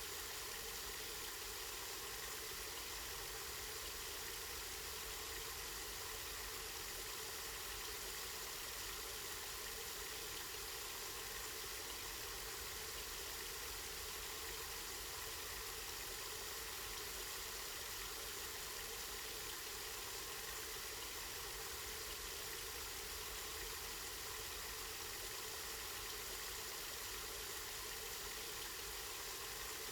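Water from a spring running and splashing steadily, an even rushing sound that stays the same throughout.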